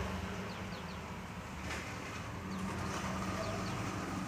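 A few faint, short high chirps from small birds, in little groups, over a low steady hum.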